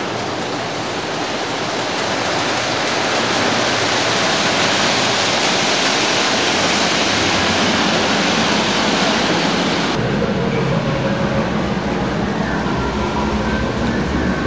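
Model trains running on a layout: a steady rumbling whir of wheels on track and motors. About ten seconds in, the hiss thins out and a lower rumble grows stronger.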